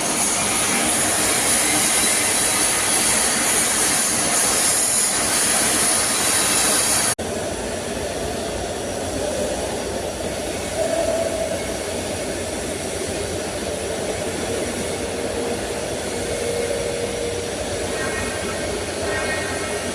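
Steady welding-shop noise with a strong hiss. It breaks off in a sharp cut about seven seconds in, then goes on somewhat quieter with a faint hum.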